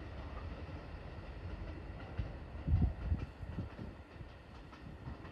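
Keikyu electric train pulling away along the track, a low rumble with a few heavier low thumps about halfway through.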